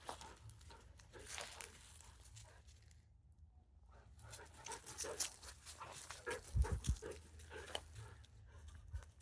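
A dog panting close by, amid rustling and handling noises, with a short cluster of low thumps about two-thirds of the way through.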